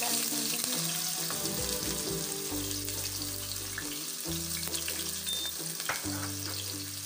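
Sliced onions sizzling steadily in a pan of hot cooking oil, just dropped in and starting to fry.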